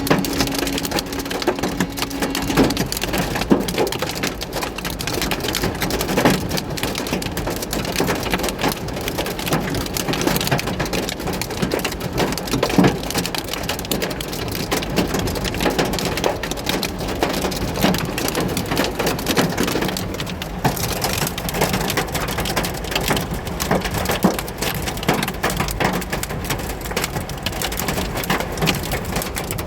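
Severe hail storm: hailstones and heavy rain pelting a vehicle, a dense, unbroken clatter of hard impacts.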